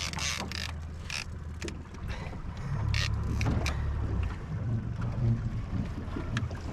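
Small outboard motor running at low speed on a jon boat, a steady low hum, with wind on the microphone and scattered clicks from a fishing reel being cranked in, thickest in the first second or so.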